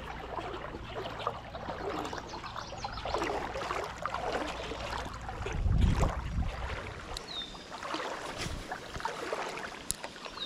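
Creek water splashing and rippling, with low gusts of wind on the microphone, the strongest gust about six seconds in. A brief high chirp sounds about seven seconds in.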